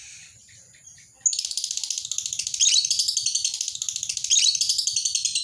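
Lovebird 'ngekek': a long, fast, high-pitched chattering trill that starts abruptly about a second in and carries on without a break.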